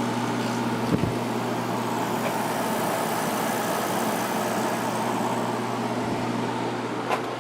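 1994 White Westinghouse 5200 BTU window air conditioner running on high fan: a steady rush of air over a low, even hum, with a faint knock about a second in and another near the end.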